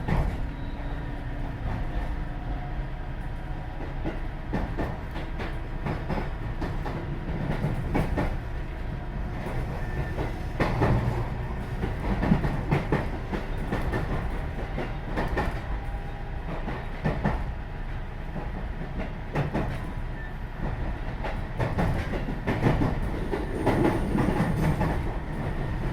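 JR West 207 series electric train running, heard from inside the car: a steady low rumble with wheels clacking over rail joints at irregular intervals. Faint steady tones from its Mitsubishi power-transistor and GTO thyristor chopper traction equipment sit above the rumble.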